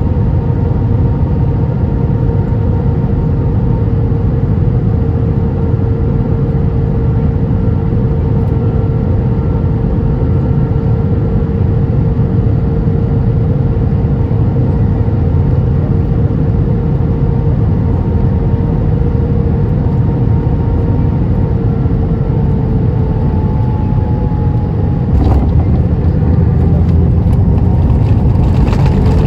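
Airbus A320 cabin noise on final approach: a steady rumble with a held engine whine that sinks a little in pitch. About 25 seconds in a sudden jolt comes, and after it the rumble grows louder, as the wheels touch down and the jet rolls out on the runway.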